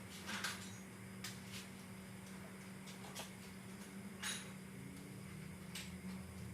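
A few light metallic clinks and ticks of tools or small metal parts being handled, about six at irregular moments, over a steady low hum.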